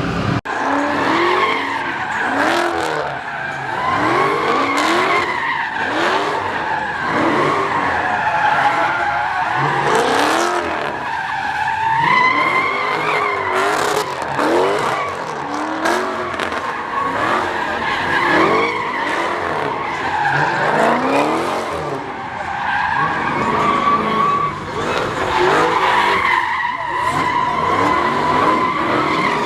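Car sliding in the pit with its tires squealing in long wavering screeches while the engine revs up again and again.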